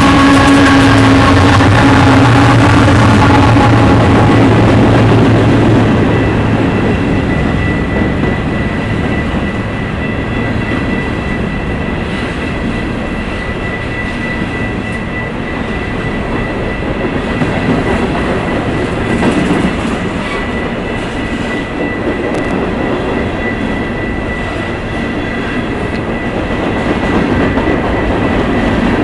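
Union Pacific freight train passing: the diesel locomotive goes by loudly in the first few seconds, then a string of empty covered hopper cars rolls past with a steady rumble of wheels on rail and a thin, steady high ringing from the wheels.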